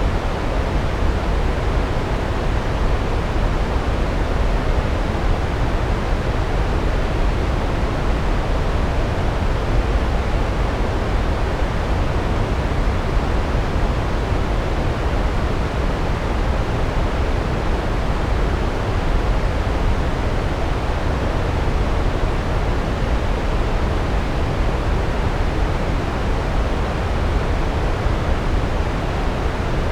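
Large waterfall's steady roar of falling water, deepest in the low end and unbroken throughout.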